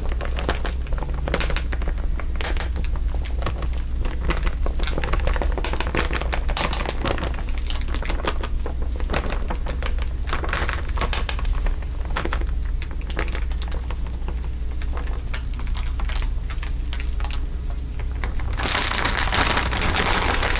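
Layered crinkling: many crisp crackles and ticks overlapping over a steady low hum, thickening into a dense rustle near the end.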